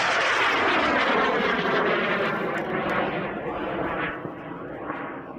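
Aerotech K270 high-power rocket motor firing as the rocket lifts off: a loud, steady roar that starts suddenly just before and fades over the last second or so as the rocket climbs away.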